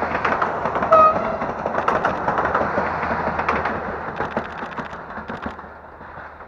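Diesel multiple unit passing close by: dense rapid wheel clatter over a steady low engine hum, fading as the train draws away. A brief tone sounds about a second in.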